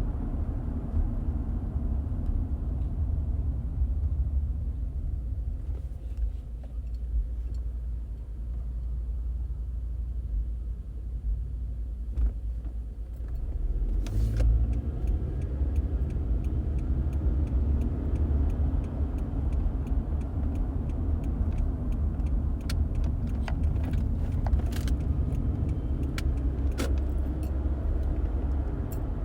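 Car interior ride noise: a steady low rumble of tyres and engine on the road. About halfway through there is a sharp knock, and in the last few seconds there are scattered light rattling clicks.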